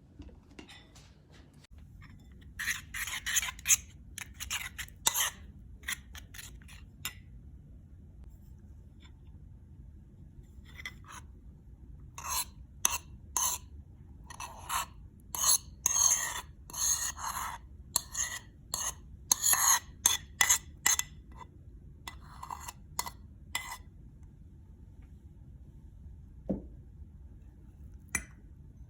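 A metal utensil scraping and knocking against a pan or dish in irregular bursts of strokes, with pauses between them, then a quieter stretch near the end.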